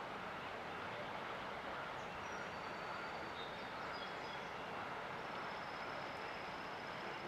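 Steady rushing of river water, with a few short, high bird chirps about two to four seconds in and a small bird's fast, high trill near the end.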